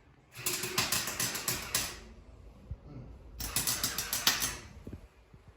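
Welding on a car exhaust: two short bursts of crackling from the welding arc, each a second or more long, with a pause of about a second and a half between them.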